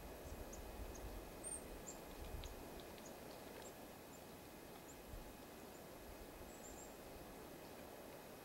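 Small birds giving faint, short, high chirps, scattered irregularly, over a steady low rumble of background noise.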